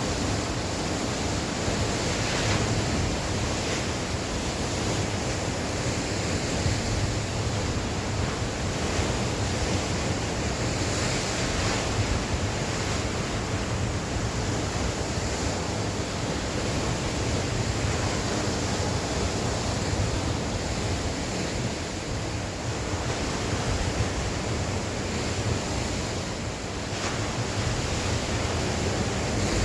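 Sea waves breaking and washing on the shore, a continuous surf wash with gentle swells, and wind buffeting the microphone in a low rumble.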